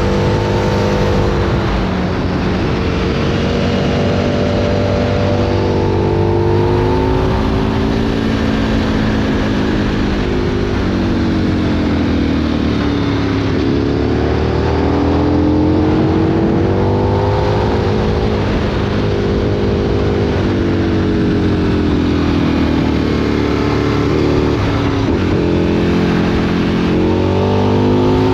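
2003 Aprilia Tuono 1000's 60-degree V-twin, breathing through a Remus exhaust, under way: the engine note rises and falls several times with the throttle and the gear changes.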